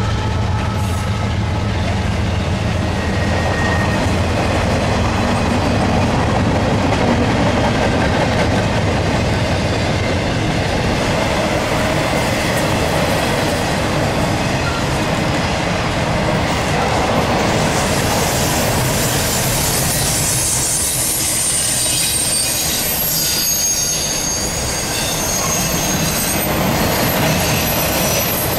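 Train rolling past on the rails, its wheels running steadily over the track, with a low steady drone that fades out about a third of the way in. From about two-thirds of the way through, high-pitched wheel squeal joins in, several thin tones at once.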